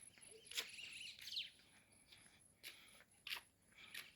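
Faint footsteps at an even walking pace, about three every two seconds, with a bird chirping a few times about a second in.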